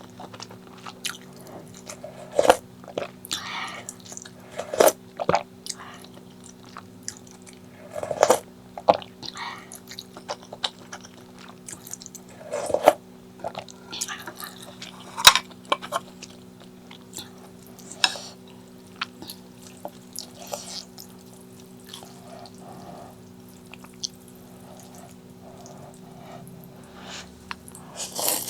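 Close-miked eating: wet chewing and mouth smacks with irregular sharp clicks, every second or two. A steady low hum runs underneath.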